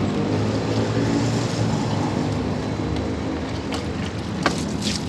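A motor vehicle's engine running past with a steady low hum that slowly fades away. A few sharp clicks come near the end.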